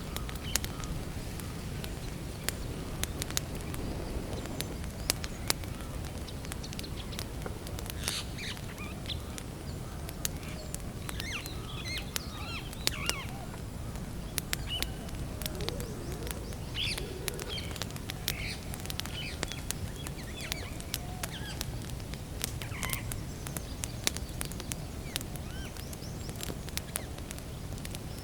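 Wood campfire crackling with frequent sharp pops over a steady low hiss, while small birds chirp now and then in short bursts.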